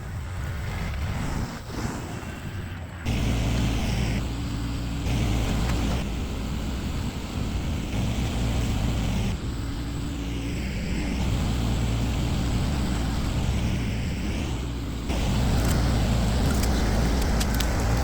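Tractor engine running, its throttle raised about three seconds in and again near the end, with a few light clanks toward the end.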